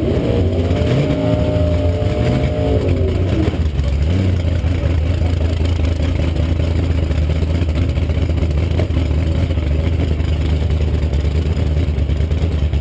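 Supercharged, alcohol-injected 383 small-block Chevrolet V8 with an 8-71 blower, revved up and down a few times at the start, then idling steadily with a loud, low note.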